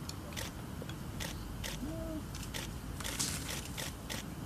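Camera shutters clicking at irregular intervals, several cameras firing at once, with a dense cluster of clicks about three seconds in.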